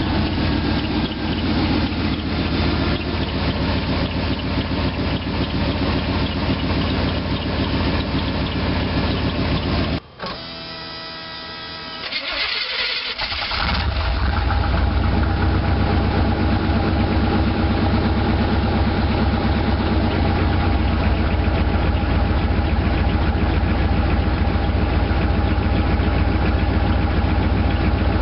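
1989 Chevrolet Silverado K1500's throttle-body-injected small-block V8 idling just after a cold start, with the drive belt squeaking. About ten seconds in the engine sound cuts out abruptly and a steady tone sounds for a few seconds. Then the engine is running again with a deeper, heavier idle.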